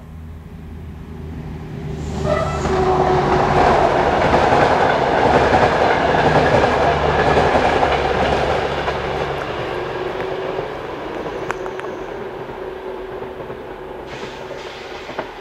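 Passenger train passing on the line below, its wheels and running gear rumbling louder for the first few seconds, loudest midway, then fading as it moves away.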